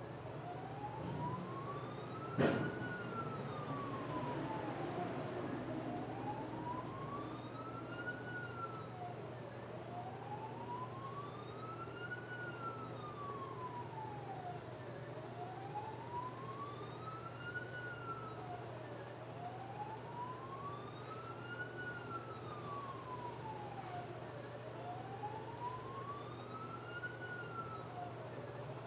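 Emergency vehicle siren in a slow wail, its pitch rising and falling about every five seconds, over a steady low hum. A single sharp knock sounds about two and a half seconds in.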